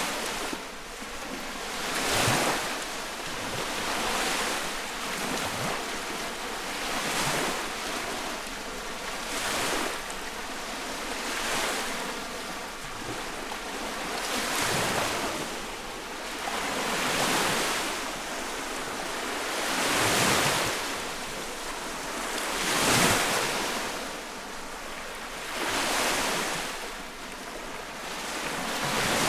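Small lake waves lapping and washing on the shore close by, each wave swelling and falling away every two to three seconds.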